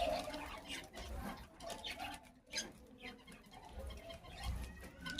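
Small pet birds chirping and chattering softly in short, scattered calls.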